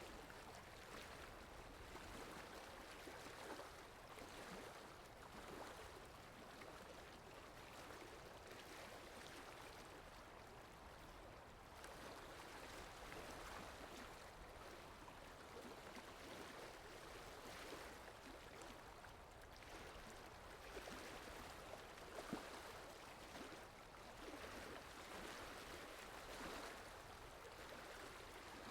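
Faint, steady rain falling in a forest, an even wash of noise that swells and eases slightly.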